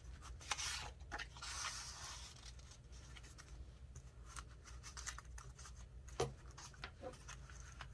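Paper and card being handled on a craft table: soft rustling and scraping with small taps and clicks, as a paper piece is picked up and laid on a journal page. The loudest rustling comes about a second or two in.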